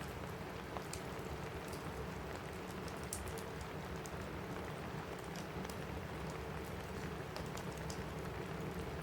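Steady rain falling on a roof, with scattered sharp pops and crackles of a wood fire burning in a fireplace.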